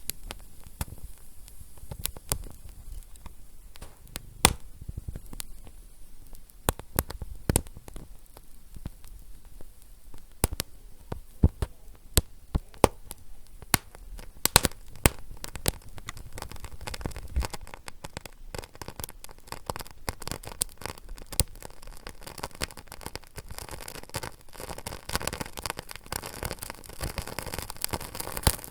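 Wood fire crackling: irregular sharp pops and snaps over a low rumble, becoming denser with a hissing crackle in the second half.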